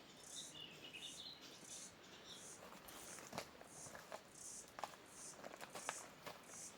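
Faint outdoor ambience: a high chirp repeating steadily about once or twice a second, with brief bird twittering near the start. From about halfway there are scattered light clicks and taps.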